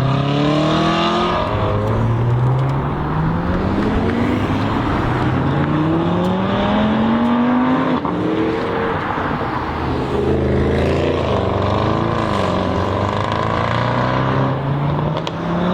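Supercar engine under hard acceleration, its pitch climbing in long rises and dropping back at each upshift, about five times over.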